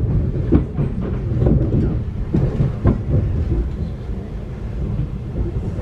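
Thameslink Class 700 electric train in motion, heard from inside the carriage: a steady low rumble of wheels on rail, with a few short knocks in the first three seconds.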